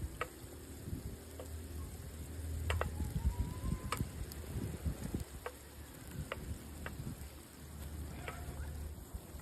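Food sizzling in a cast iron pan over a campfire as it is stirred, with scattered sharp clicks throughout.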